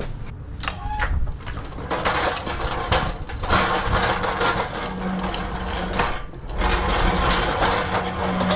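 A loaded delivery cart rolling over rough ground, its wheels and the stacked cases of goods rattling and clattering, with a steady low hum underneath from a few seconds in.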